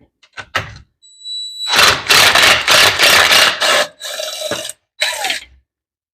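A handheld power tool on the motorcycle's kicker cover. A few light clicks, then a high thin whine about a second in, a loud noisy run of about two seconds, and two shorter bursts near the end.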